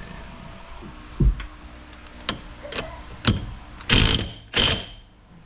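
Hand tools at work on a steering wheel hub nut: a few separate metal clicks and knocks, then two short rasping runs of a socket wrench's ratchet near the end.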